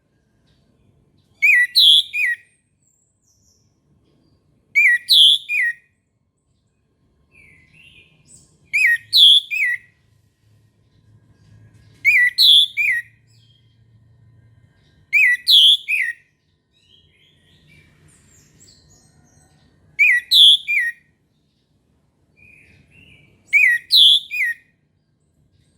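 Orange-headed thrush singing: seven short, loud phrases, one every three to four seconds, each a quick run of a few high notes.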